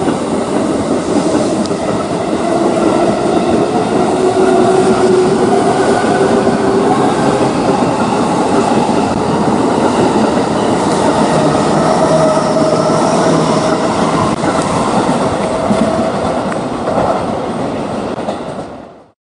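Electric train running on the rails, a steady noisy rumble with motor tones that shift in pitch. The sound falls away abruptly near the end.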